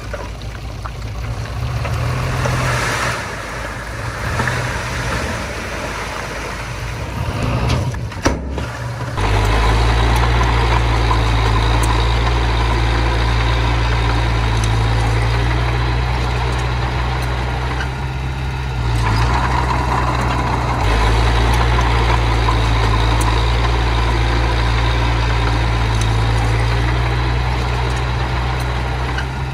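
Heavy machinery diesel engine running steadily, with a brief drop-out about eight seconds in, after which it comes back louder with a stronger low hum.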